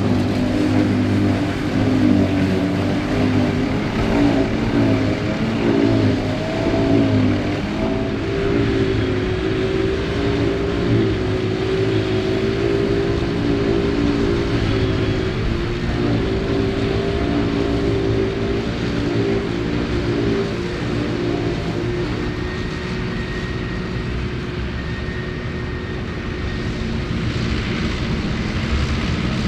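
Ford 8630 tractor's diesel engine running under load while pulling and driving a Mengele SH40N forage harvester. The engine note wavers up and down in the first several seconds, then holds steady. It fades a little past two-thirds of the way through and comes back up near the end.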